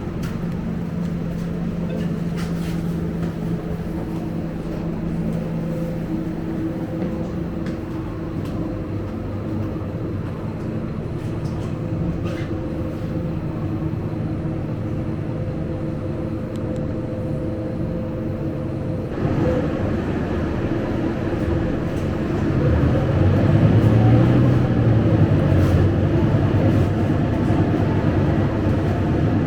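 Scania K250UB bus heard from inside the cabin, its engine and drivetrain running steadily with a low hum. About two-thirds through the sound grows fuller and louder, with a low engine note rising and then easing as the bus picks up speed.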